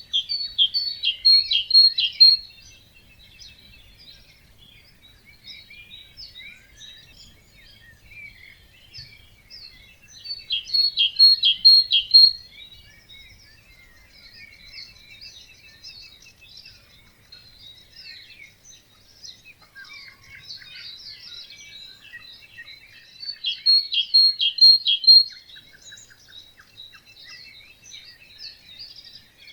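Dawn chorus of birds in a wetland. One bird repeats a loud song of rapid, evenly spaced notes three times, about every eleven seconds, over softer varied chirping from other birds.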